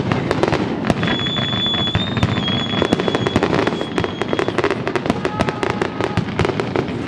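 Fireworks display: a dense, continuous run of bangs and crackles from bursting shells over a loud rumble, with a steady high whistling tone through the middle.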